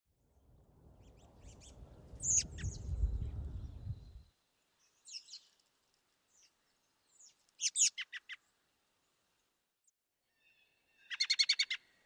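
Birds calling: scattered short high chirps, a quick run of about six descending notes about eight seconds in, and a fast chattering series of about eight notes near the end. A low rumble sits under the first four seconds.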